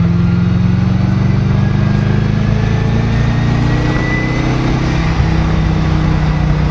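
Twin-turbocharged V8 of a 1995 Callaway Corvette, heard from inside the cabin, running steadily at a light cruise, with a faint high whistle rising gently around the middle.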